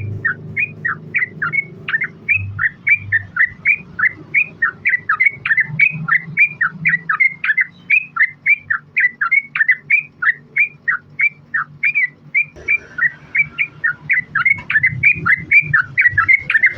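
Yellow-vented bulbul (trucukan) singing a long, unbroken 'ropel' run of quick bubbling notes, about four a second.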